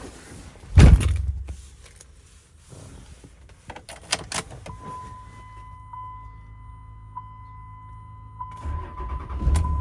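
A heavy door thunk about a second in, then a few clicks and a steady high electronic warning tone. Near the end the Ram's 5.9L Cummins turbo-diesel inline-six cranks and starts, settling into a low steady running sound.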